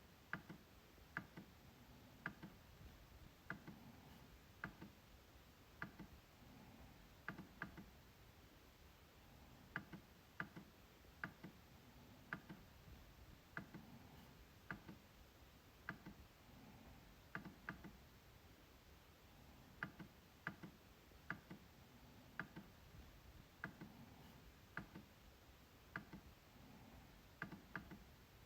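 MacBook trackpad clicking: sharp single clicks about once a second at an uneven pace, now and then in quick pairs.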